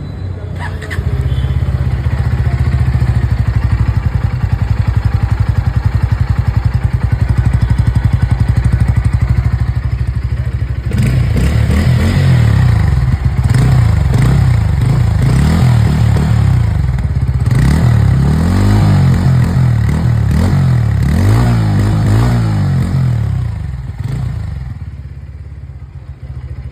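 Bajaj Pulsar N160 motorcycle's single-cylinder engine heard through its exhaust, idling steadily at first. It is then revved again and again, the pitch climbing and falling with each throttle blip, before settling back to idle near the end.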